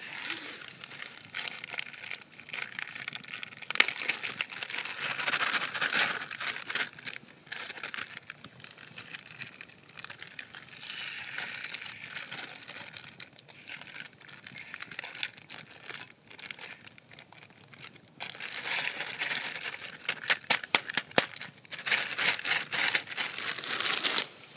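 Crinkling and rustling of something being handled, in uneven spells, with a quick run of sharp clicks in the last few seconds.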